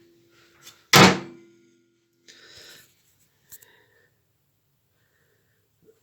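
A microwave oven's door shut with a loud thunk that rings on briefly, followed by a soft rustle and a faint click.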